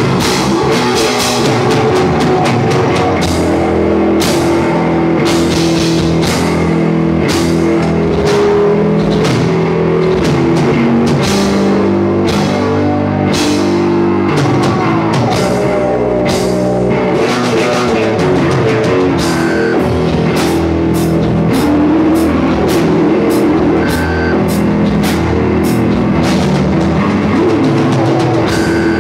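Rock band playing loudly and continuously: a drum kit keeping a steady beat under guitar.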